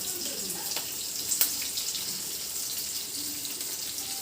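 Onions sizzling in hot oil in a frying pan, a steady hiss, with a sharp click about a second and a half in.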